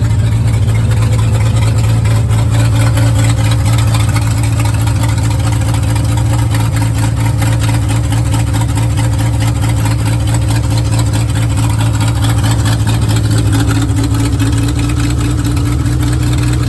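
1960 Ford F100 truck engine idling steadily, cold-started after sitting all winter.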